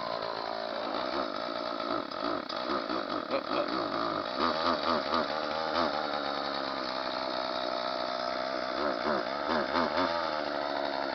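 Homelite 14-inch 33cc two-stroke chainsaw running steadily, with its engine revved up and down in two spells, one a few seconds in and one near the end.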